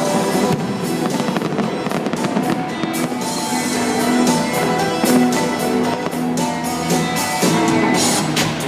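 Fireworks bursting and crackling again and again, with music playing steadily underneath.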